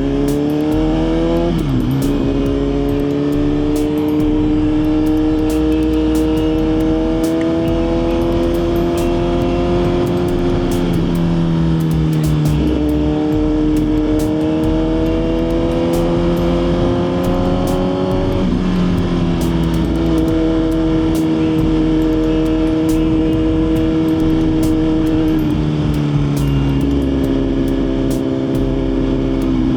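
Suzuki GSX-R1000's inline-four engine pulling under way, heard from the rider's helmet. The note climbs slowly and drops back sharply about four times, near the start, a little before halfway, past the middle and near the end.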